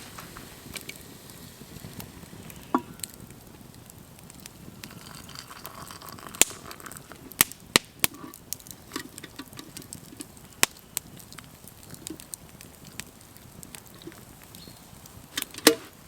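Wood campfire crackling, with irregular sharp pops and snaps over a low hiss of burning.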